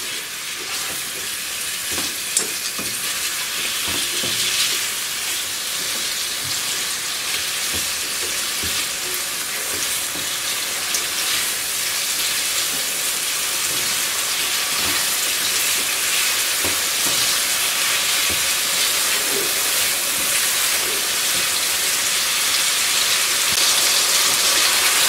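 Chicken pieces and ground spices sizzling as they fry over high heat in a nonstick wok, with a spatula stirring and scraping through them at intervals. The sizzle grows slowly louder toward the end.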